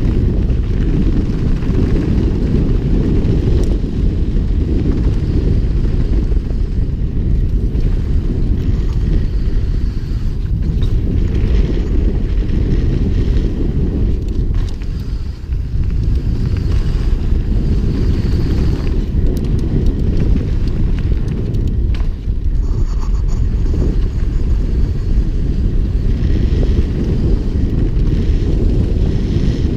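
Wind buffeting the microphone of a mountain bike ridden downhill, a steady loud low rumble with faint, patchy trail noise over it.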